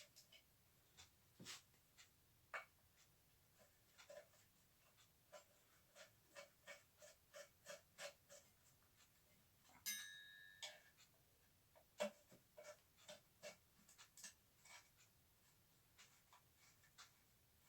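Quiet, irregular small clicks and taps of vacuum cleaner parts being handled and fitted together by hand during reassembly, with one ringing metallic clink about ten seconds in.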